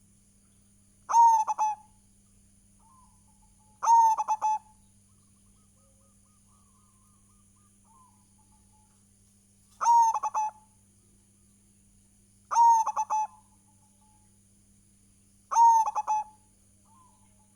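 Zebra dove (perkutut) cooing: five short song phrases of quick cooing notes, each about a second long, spaced a few seconds apart. A faint steady hum runs underneath.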